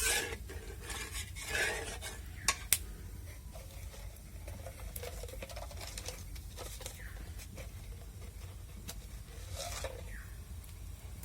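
A cooking spoon stirring a masala of fried onion and ginger-garlic paste with water just added in a kadai, scraping and knocking against the pan. A sharp knock at the start, then scattered scrapes and taps that grow sparser after the first few seconds. A low steady hum runs underneath.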